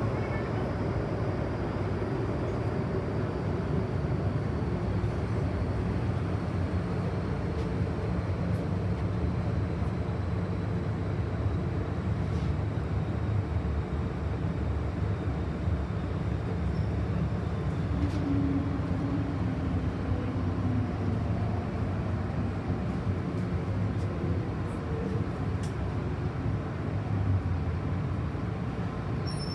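MTR M-Train running between stations, a steady rumble of wheels on rail and traction equipment. A faint high whine slowly falls in pitch through the first half.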